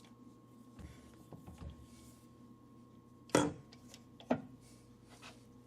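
Handling noises at a stopped metal lathe: soft shuffling and rumbling about a second in, then two sharp metallic knocks about a second apart, the first the louder, over a faint steady hum.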